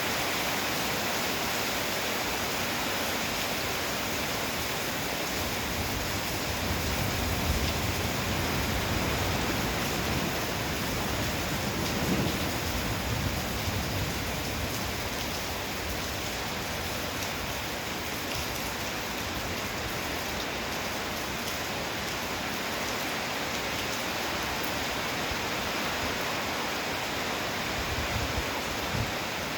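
Heavy downpour with wind, a steady dense hiss of rain. A low rumble of distant thunder swells from about six seconds in and fades by about fourteen seconds, with a weaker low swell near the end.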